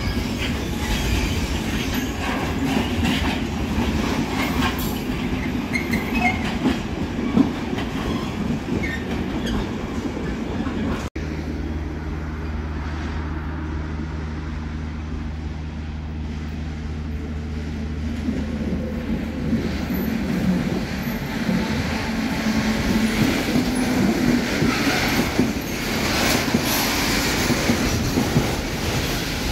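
Container train in a rail yard: freight wagons rolling with wheel and track clatter. After an abrupt cut, a diesel locomotive engine runs with a steady low hum, and rolling wagon noise builds again toward the end.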